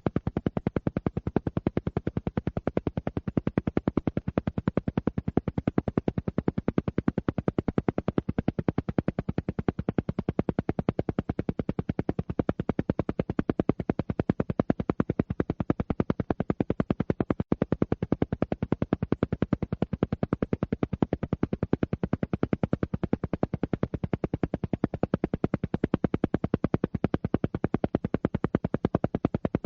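Alpha-wave brainwave-entrainment audio: a steady sound pulsed on and off in an even, rapid beat of about ten pulses a second, with no change in rate, meant to steer the listener toward a relaxed alpha state.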